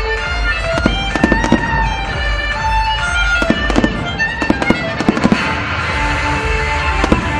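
Aerial fireworks going off in a show, with sharp bangs and cracks coming in clusters about a second in, through the middle and once near the end, over loud melodic music.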